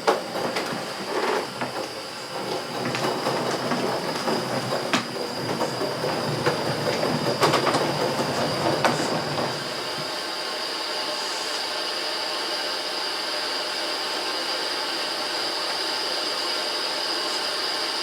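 Coal-fired live-steam model locomotive working along the track, with grinding, clattering and clicks for about ten seconds. Then the engine stands and a steady steam hiss with a high whine carries on.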